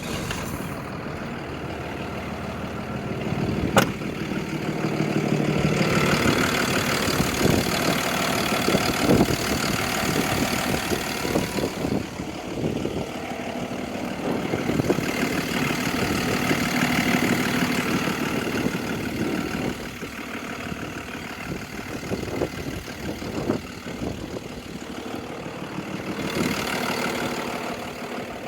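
Cummins ISB 6.7-litre diesel engine of a Freightliner M2 box truck idling just after start-up, louder through the middle stretch and settling lower near the end. A single sharp click about four seconds in.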